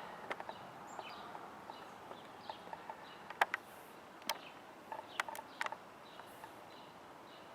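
Quiet outdoor background with scattered, irregular sharp clicks and taps.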